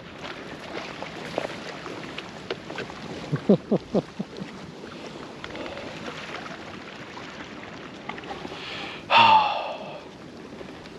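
Steady rushing noise, with a cluster of sharp low knocks or crunches about three and a half seconds in and a brief voiced gasp or exclamation, falling in pitch, about nine seconds in.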